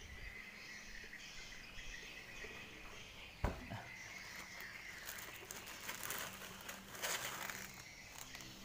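Faint outdoor ambience with a steady high-pitched buzz, a single sharp knock about three and a half seconds in, and a stretch of rustling near the end.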